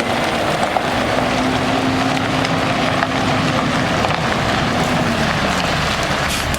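Freightliner Coronado water truck's diesel engine running with its PTO water pump engaged, over a steady hiss. The engine's pitch rises a little about a second in and falls back after about five seconds.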